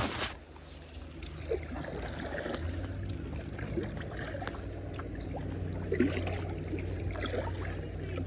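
Kayak paddle strokes: a splash at the start, then water dripping and trickling off the blade with small splashes. A steady low hum comes in about two and a half seconds in.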